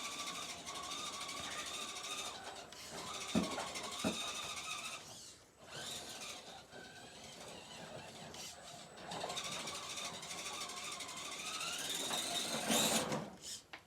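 Electric motor and geared drivetrain of a Redcat Gen7 Sport 1/10 RC rock crawler whining, the pitch rising and falling as the throttle is worked, stopping briefly now and then. Two sharp knocks a little over three and four seconds in, the truck bumping on the rocks.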